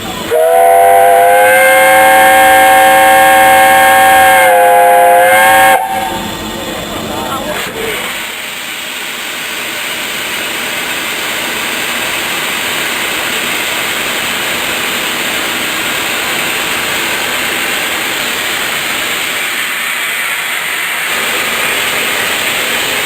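Steam locomotive whistle sounding loudly for about five seconds, several notes at once, cut off sharply; then a steady hiss of escaping steam from the locomotive.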